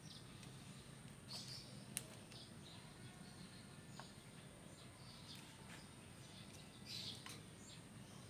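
White-breasted waterhen (ruak-ruak) giving a few faint, short, high chirps a few seconds apart, over a low steady hum, with one sharp click about two seconds in.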